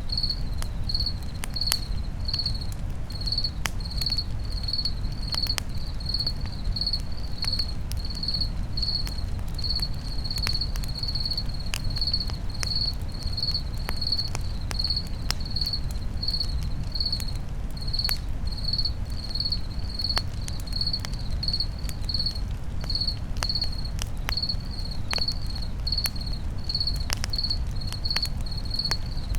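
Crickets chirping steadily at about two chirps a second, over the irregular crackles and pops of a campfire and a steady low rumble.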